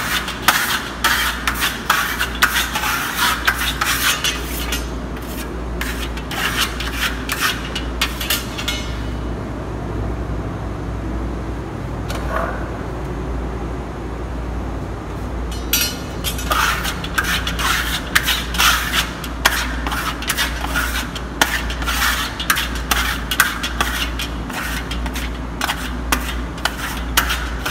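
Marmorato trowel scraping and smoothing burnt-cement effect paste on a wall in quick repeated strokes, worked in many directions to build the mottled finish. The strokes pause for several seconds in the middle, then resume. A low steady hum lies underneath.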